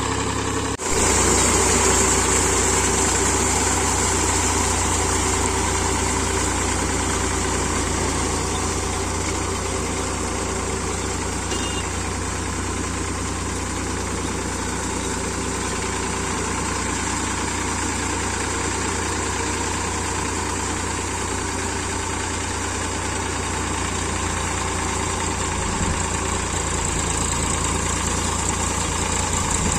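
Powertrac 445 DS Plus tractor's diesel engine running steadily at a low, even rumble, with a brief break about a second in.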